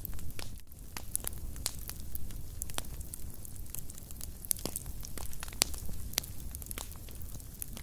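Wood fire burning in a fireplace: frequent irregular crackles and pops over a low steady rumble of flame.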